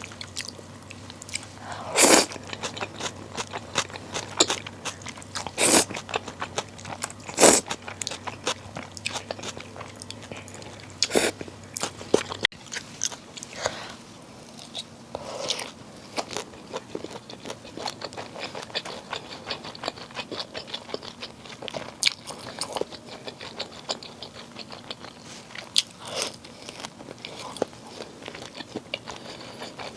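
Close-up eating sounds of a person eating bibim naengmyeon, spicy cold buckwheat noodles: chewing, with repeated crunchy bites. The loudest bites come in the first half, about 2, 6, 7.5 and 11 seconds in, and softer chewing follows.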